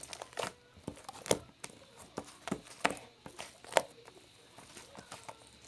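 Irregular sharp taps and clicks of small hard objects being handled, a dozen or so spread unevenly, the loudest about a second in and near four seconds in.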